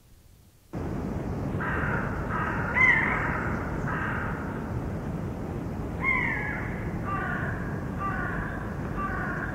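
Birds cawing in short repeated series over a steady low rumbling noise that cuts in suddenly about a second in; two louder calls fall in pitch, near three seconds and six seconds in.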